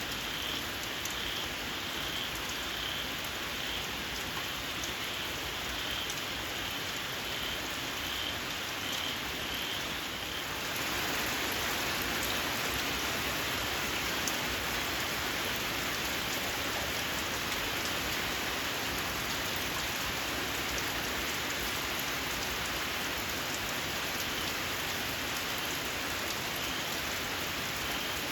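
Steady rain falling, with a frog calling a high, short squeak over and over in an even series. About ten seconds in, the rain grows heavier and louder and the squeaks are lost under it.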